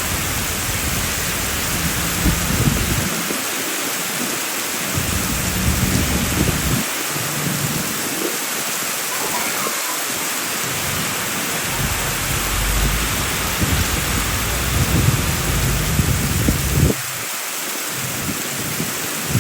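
Heavy rain falling steadily, with low rumbles that come and go and stop abruptly about 17 seconds in.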